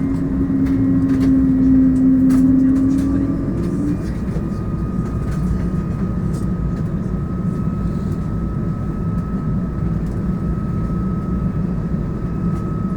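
Airliner cabin noise inside an Airbus A220 with Pratt & Whitney PW1500G engines: a steady rush of engine and airflow noise. A low steady hum stops about three and a half seconds in, while a higher whine rises slightly and then holds.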